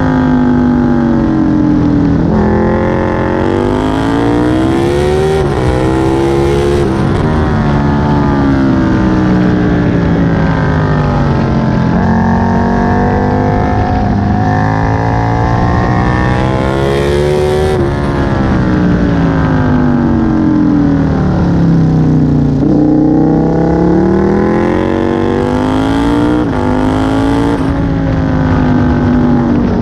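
Aprilia Tuono 1000's V-twin engine, heard from on board at track pace. The engine pitch climbs under hard acceleration and drops away on braking for corners, several times over.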